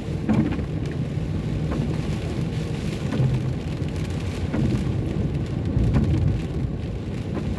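Steady low rumble of a car driving on a wet road in the rain, heard from inside the cabin, with a few faint ticks.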